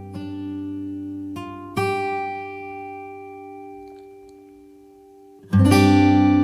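Background music: an acoustic guitar playing chords that are plucked and left to ring and fade, with a few new chords in the first two seconds and a louder one near the end.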